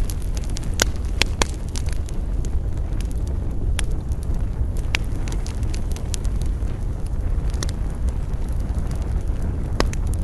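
Campfire crackling, with irregular sharp pops scattered through, over a steady low rumble.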